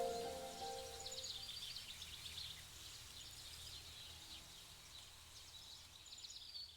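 Small songbirds chirping and trilling. Soft sustained music fades out about a second in, leaving the birdsong alone, growing slowly fainter.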